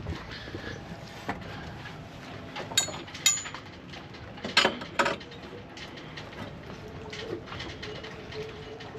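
A few sharp metallic clinks and knocks from flagpole and flag fittings being handled, two of them ringing briefly about three seconds in, two more duller knocks about five seconds in.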